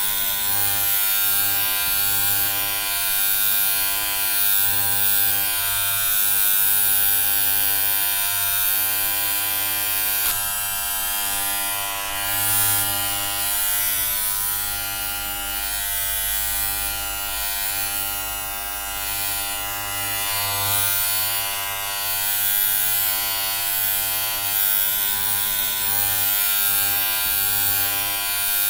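Electric hair clippers buzzing continuously, a steady motor hum with a hissing edge that swells and eases slightly in loudness.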